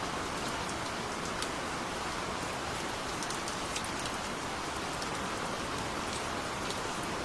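Steady gentle rain, an even hiss of rainfall with individual drops ticking here and there.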